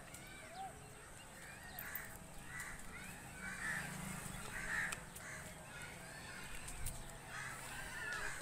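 Birds calling in the background: short calls repeated about once a second, with faint chirps between them.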